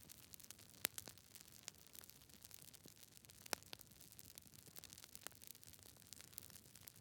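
Campfire burning close up: a steady run of small crackles over a faint hiss, with sharper pops just under a second in and about three and a half seconds in.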